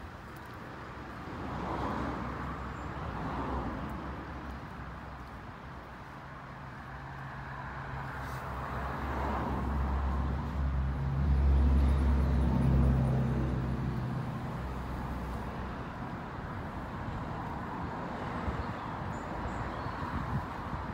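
Outdoor ambience with a motor vehicle's engine running at low revs: a low hum that builds to its loudest about halfway through, then fades, over a steady hiss of wind and distant traffic.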